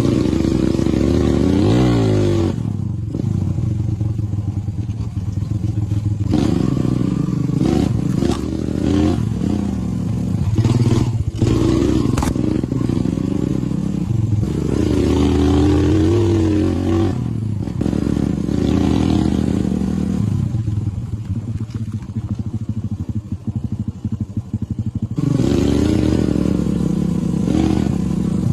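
Motorcycle engine running as it is ridden, its pitch rising and falling as the throttle opens and closes, with scattered knocks and rattles. It eases off for a few seconds, then picks up again near the end.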